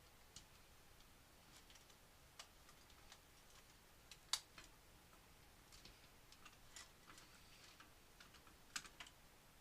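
Faint, scattered small clicks and taps of computer parts being handled during a PC build, with a sharper click about four seconds in and another near the end.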